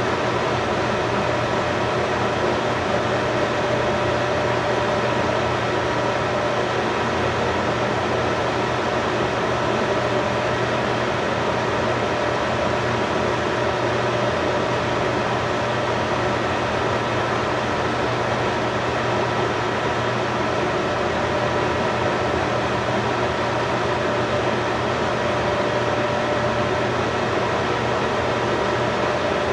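A steady machine hum: an even whirring noise with a few faint steady tones in it, unchanging throughout.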